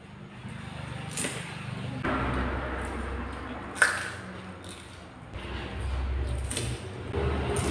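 Panipuri being eaten close to the microphone: crunching of the crisp puri shells and mouth noises, with a few sharp clicks and a low rumble underneath.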